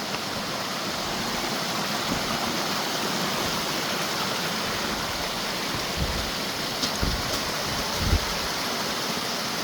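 Rushing water of a mountain creek and waterfall, a steady hiss with no let-up. There are a few short low thumps about six, seven and eight seconds in.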